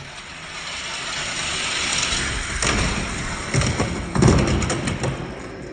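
Hot Wheels die-cast cars, a Lamborghini Centenario and a Formula E car, racing down a plastic track: a rolling, rattling rumble that builds, then several sharp knocks and thumps from about two and a half to five seconds in.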